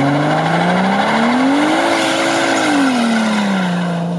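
Toyota Supra engine in a VAZ-2104 estate revving hard on a launch, its rear tyres spinning and squealing in a cloud of smoke. The engine's pitch climbs for about two seconds, holds, then drops back to a steady lower note near the end.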